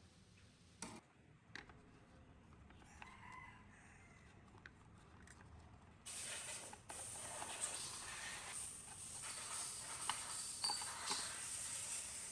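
Faint clicks and taps, then from about six seconds in a sudden steady hiss with scattered clicks over it.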